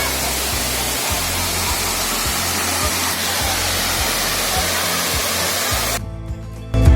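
Steady roar of a waterfall's falling water, cutting off suddenly about six seconds in; background music starts just before the end.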